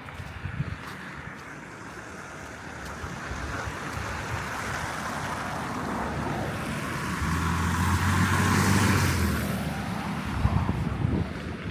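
A car driving past on the street: engine hum and tyre noise swell, are loudest about eight to nine seconds in, then fade.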